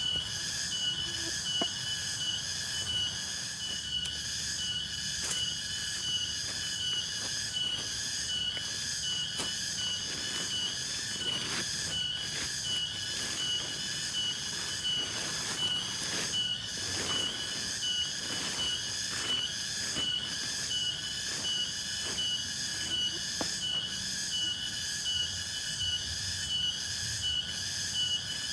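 Night insect chorus: several steady high-pitched trills layered together, one of them pulsing rapidly, over a faint low rumble.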